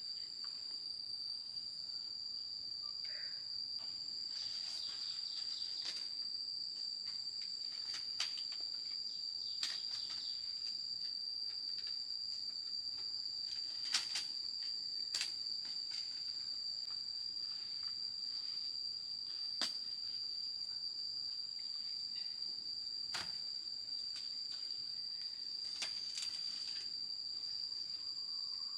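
Insects shrilling in one steady, unbroken high-pitched drone. Sharp knocks and clicks sound now and then at irregular intervals.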